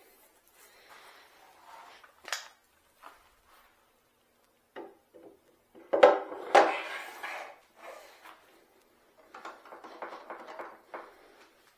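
Metal tools and lathe parts being handled and set down: a few separate knocks and clinks, the loudest cluster about six seconds in, then a stretch of light rattling near the end.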